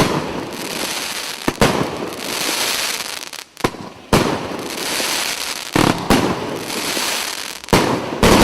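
Consumer firework battery (cake) firing shot after shot: a sharp bang every second or two, each followed by about a second of dense crackling.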